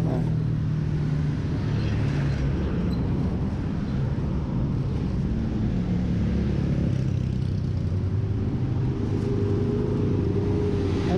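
Motorcycle engine running at low speed, a steady low hum as the bike rolls slowly along the road.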